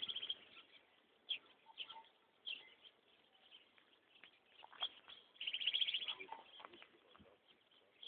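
Wild birds calling in dry scrub: scattered short high chirps, and a rapid trill of high notes lasting about a second a little past halfway.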